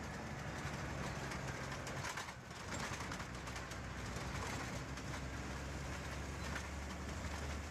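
Bus running on the road: a steady low engine hum under a broad haze of road and wind noise, dipping briefly about two seconds in.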